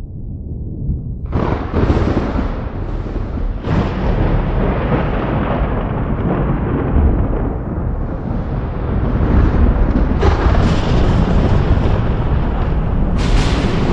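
Thunder: a low rumble builds, then sharp cracks break about a second in, near four seconds, around ten seconds and near the end. Each crack is followed by a long rolling rumble.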